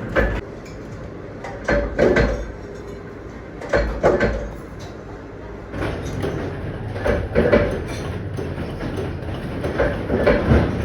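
Irregular knocks and rattles, several of them, a second or two apart, over a steady low rumble.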